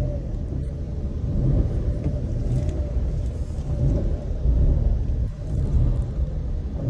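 A small Suzuki car's engine running with a low rumble in the cabin as the car is driven forward.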